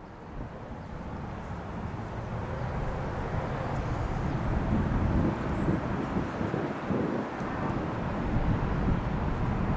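Boeing 747-8I's four GEnx jet engines at takeoff power, a low rumbling roar that grows louder over the first few seconds and then holds steady.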